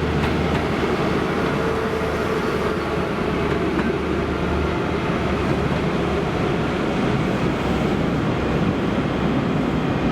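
ScotRail High Speed Train with Class 43 diesel power cars 43169 and 43003 on the move: steady diesel engine drone mixed with wheel-on-rail noise.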